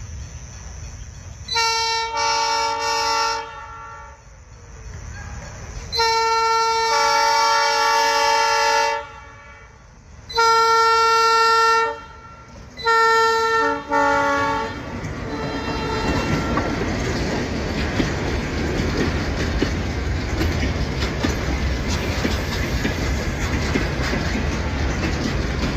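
ALCo RSD16 diesel locomotive sounding its multi-tone air horn in five blasts: one long, a longer one, a medium one, then two short ones close together. Then the train rolls past with a steady rumble and the clatter of empty freight wagons on the rails.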